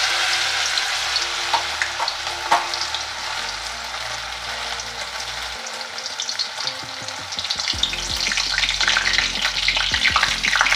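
Maggi noodle pakora batter frying in hot oil in a kadai, a steady sizzle with scattered pops and crackles that grows busier toward the end.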